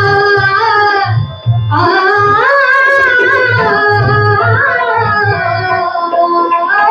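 Live Indian devotional song: a child's high voice sings long, ornamented, bending phrases over harmonium, with a steady hand-drum beat. The voice breaks briefly about a second and a half in.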